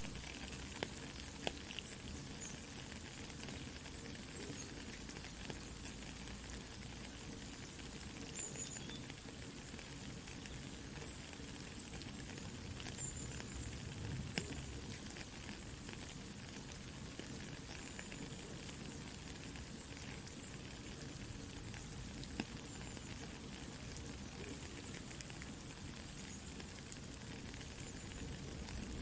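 Steady soft rain falling, with the scattered pops and crackles of a campfire burning.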